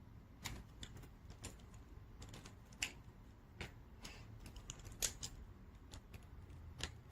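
Plastic gel pens and their caps being handled: a dozen or more light, irregular clicks and taps as the caps are pushed onto the back ends of the pens.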